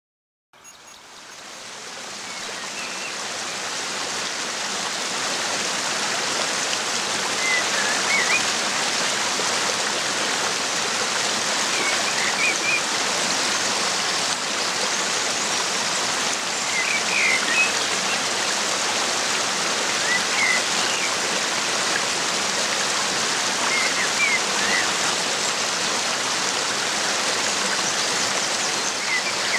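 Steady rushing of floodwater, fading in over the first few seconds, with short high chirps every few seconds.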